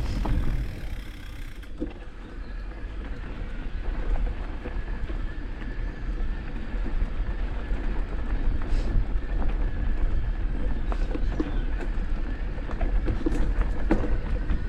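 Motocross motorcycle engines running on the track, heard from a distance as a steady rumble with a faint engine whine that comes in about six seconds in.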